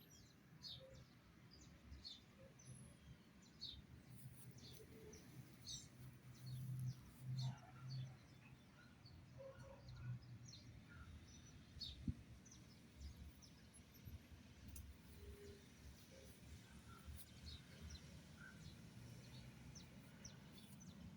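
Faint, scattered short chirps and tweets from small birds, several calling irregularly, over a low background rumble that swells for a couple of seconds near the middle. One sharp click about twelve seconds in.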